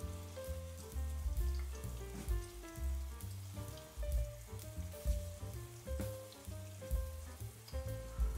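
Flour-dredged eggplant fritters frying in a pan of hot olive oil, a light crackling sizzle, under background music with a stepping melody and a steady bass line.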